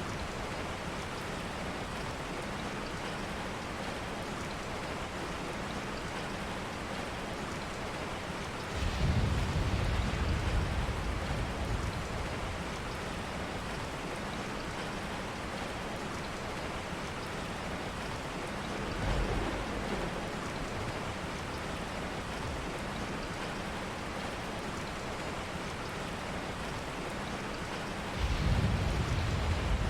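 Steady rain, with three swells of low rumbling: one about nine seconds in lasting a few seconds, a brief one about two-thirds through, and another near the end.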